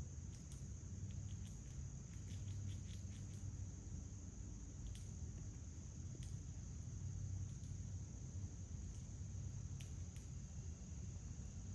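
Faint, steady, high-pitched insect chorus, with a low steady hum underneath and a scattered handful of short ticks.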